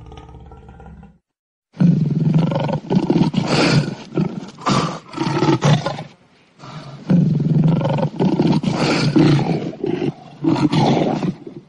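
Big cats, lions and a tiger, roaring loudly in a fight, in repeated rough bursts. The roaring starts after a short break in the sound about a second and a half in and pauses briefly around the middle.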